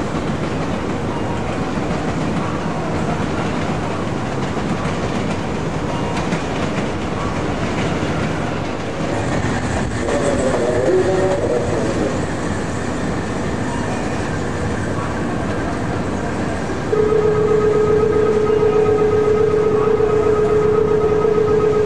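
Steady rumble of a railway station yard with an electric locomotive moving along the tracks. About two-thirds in, a steady held tone, likely a platform bell or buzzer, begins and runs on, louder than the rumble.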